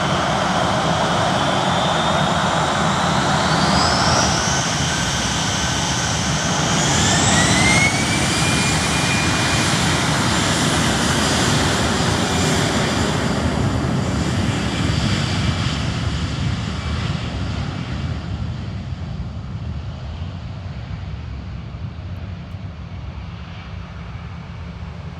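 Twin-engine jet airliner taking off: the turbofans spool up with a whine that rises in two steps in the first eight seconds, then hold at full thrust with a high steady whine over the jet rumble, which slowly fades as the plane climbs away.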